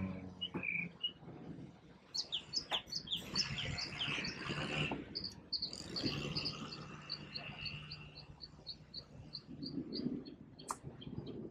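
Outdoor birds chirping and calling. From about halfway through, one bird repeats a short high note about four times a second. A faint low hum runs under the middle part.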